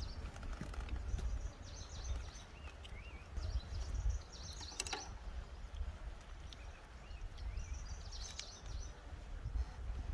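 Birds chirping in short, repeated bursts of high notes with a few wavy whistles, over a steady low rumble; one sharp click about halfway through.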